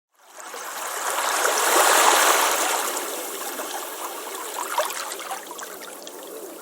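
Ocean surf washing onto a beach: a wave swells to its loudest about two seconds in, then fades as the water runs back with a fizzing, crackling hiss.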